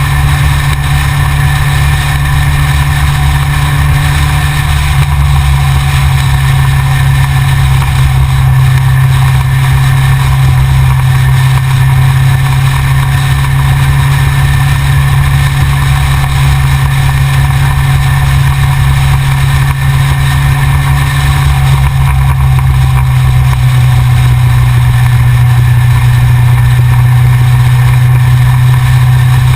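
Yamaha XJR motorcycle engine running at a steady, even pitch, with only small shifts in revs, heard from a camera mounted on the front of the bike.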